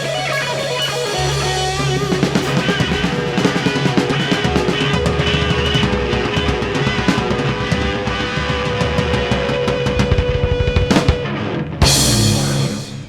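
Rock music with electric guitar and drum kit, with dense drum strokes over held guitar notes. A big final crash comes near the end, and the sound then dies away.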